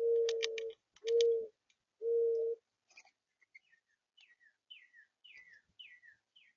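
Mourning dove cooing: the last three low, steady hoots of its song, each about half a second long. After them comes a fainter songbird giving a series of quick down-slurred whistles, about two a second.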